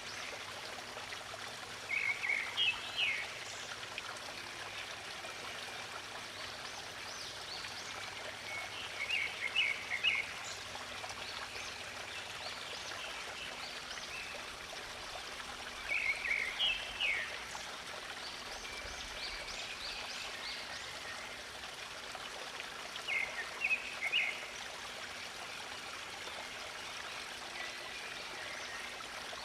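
A stream running steadily, with a songbird singing short chirping phrases four times, about every seven seconds.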